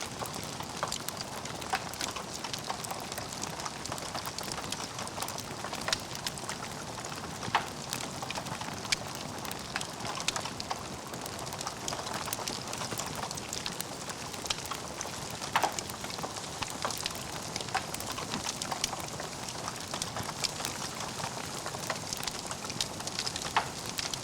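Logs burning in a fireplace: a steady crackling hiss with frequent small pops and a few sharper, louder pops scattered through.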